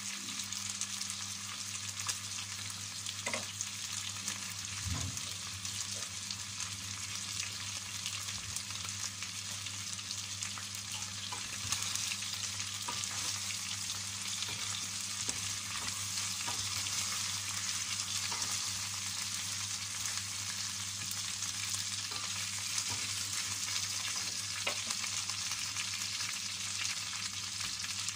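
Chicken pieces sizzling as they are lightly fried in oil in a stainless steel pot, with a wooden spatula stirring and now and then knocking against the pot. A steady low hum runs underneath.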